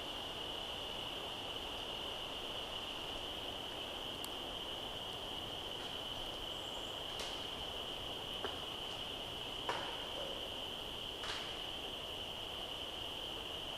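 Steady chorus of insects (crickets or katydids) holding one high, unbroken pitch, with about four faint, sharp knocks from the woods in the second half.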